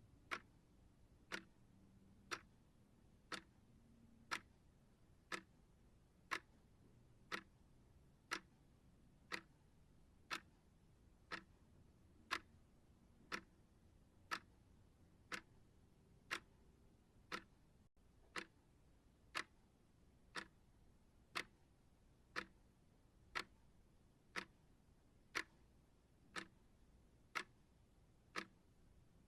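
Timer ticking steadily, one crisp tick about every second.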